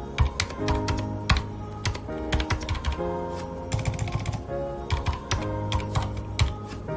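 Mechanical keyboard with Cherry MX Red (linear) switches being typed on, keystrokes clicking in irregular bursts, over background music with held notes.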